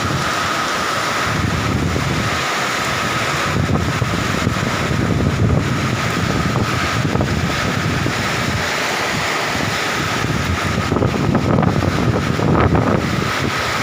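Heavy rain pouring steadily, with wind gusting on the microphone.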